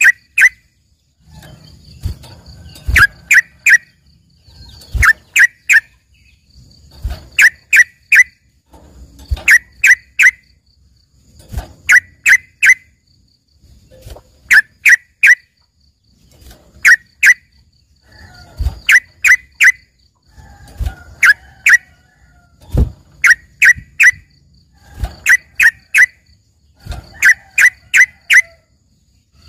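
Yellow-vented bulbul (trucukan) singing loud groups of three or four sharp, quick notes, repeated about every two seconds.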